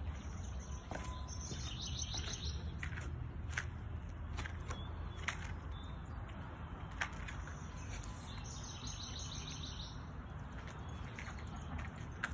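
A songbird singing two trilled phrases of quick, evenly repeated high notes, one about a second in and another near nine seconds. A steady low rumble and a few faint clicks run underneath.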